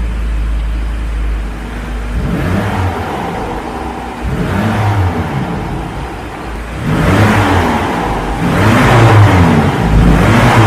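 Ford Ranger Raptor pickup's engine revving, its pitch climbing and dropping again several times in quick succession.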